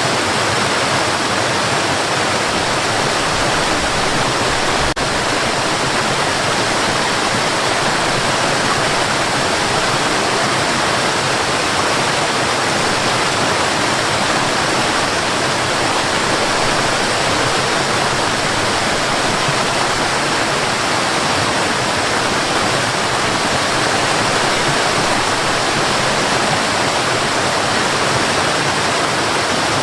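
Waterfall: a steady, even rush of falling water, with no change in level throughout.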